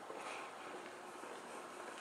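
Steady low background hiss and ambience picked up by a Sony NEX-5N's internal microphone, with no distinct clicks in this stretch.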